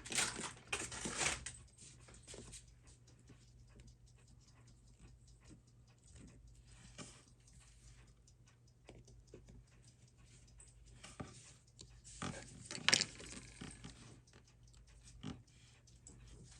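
Small, irregular clicks and scrapes of watchmaking tools and tiny parts being handled on a bench, with louder handling noise in the first second and again about thirteen seconds in, over a steady low electrical hum.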